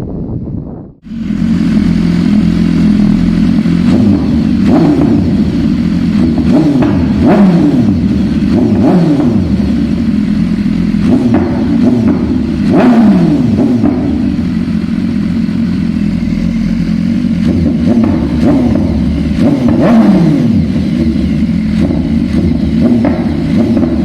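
BMW S1000RR's inline-four engine with a Bodis MGP aftermarket exhaust, revving hard. Its pitch falls again and again as the revs drop, with occasional sharp cracks, after a brief cut about a second in.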